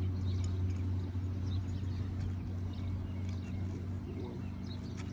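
A steady low machine hum, with faint short high ticks or chirps scattered over it.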